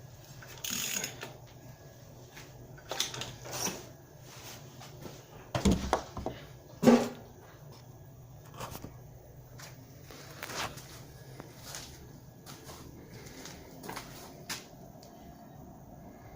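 Scattered metallic clicks and knocks of tools and engine parts being handled, with a cluster of heavier thumps about six to seven seconds in.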